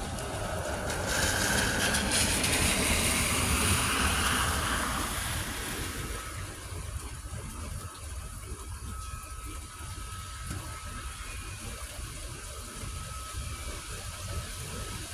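A car passes on a rain-soaked road, its tyre hiss swelling about a second in and fading away after a few seconds, over steady storm rain and wind noise.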